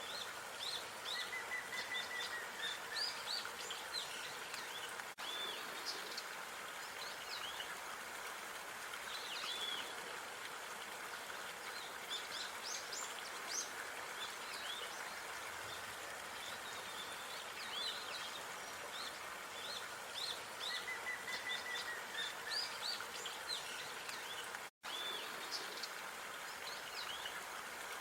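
Small songbirds chirping and calling over a steady outdoor hiss, with a short trill heard twice. The sound cuts out for an instant near the end.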